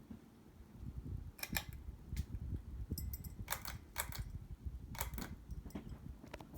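Hunter Santa Barbara 52-inch ceiling fan running, with a low rumble of moving air and a scattering of sharp, irregular clicks and ticks.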